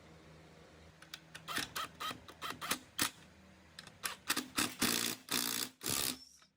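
Hand work on metal parts in a workshop: irregular clicks and knocks of tools and parts, with a few short scraping strokes near the end, then it stops abruptly.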